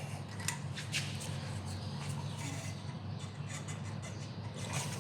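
Brake caliper piston wind-back tool being turned, screwing the rear caliper piston back into its bore. A few short clicks and squeaks sound over a steady low hum.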